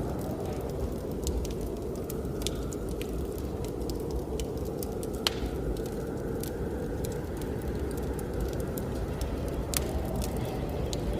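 Wood fire crackling with scattered sharp pops, a louder one about five seconds in and another near the end, over a steady low rush of blizzard wind.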